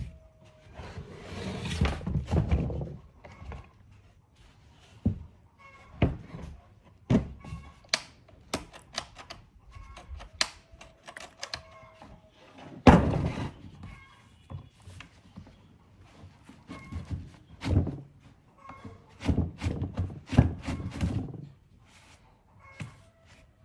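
Irregular knocks and thunks of parts of an old table fan being handled and worked on by hand, with a few louder rattling spells.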